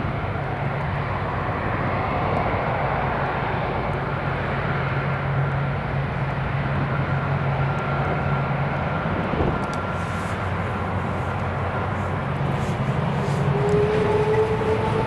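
Airliner jet engines running steadily with a low hum, and an engine whine that rises slowly near the end.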